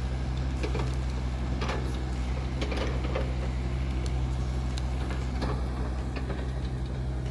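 Steady low engine drone, with scattered clicks and knocks over it.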